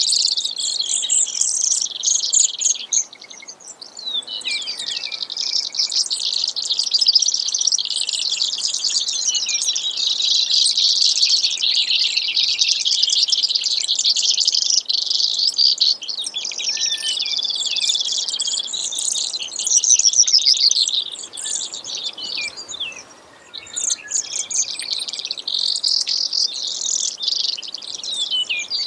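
Brewer's sparrow singing its long, continuous song of rapid trills and buzzes that shift in pitch, with brief breaks about three seconds in and again about twenty-three seconds in.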